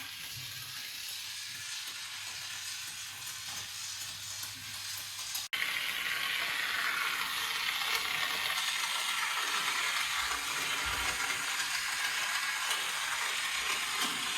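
A steady hiss with no distinct events, in two parts split by an abrupt cut about five and a half seconds in; the second part is louder.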